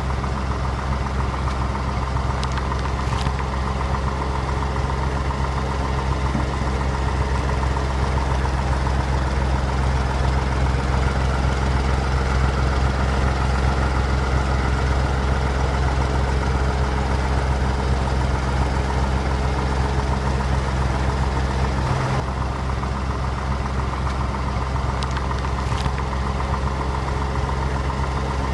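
A heavy engine idling steadily, a low even rumble that does not change for the whole stretch.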